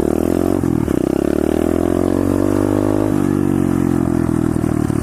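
Pit bike's small single-cylinder engine revving under throttle, its pitch climbing from about a second in and then dropping a step around three seconds in.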